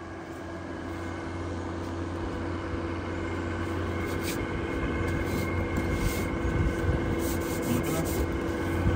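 Outdoor air-conditioner condenser unit running: a steady hum from the compressor and fan that grows gradually louder, with a few faint clicks.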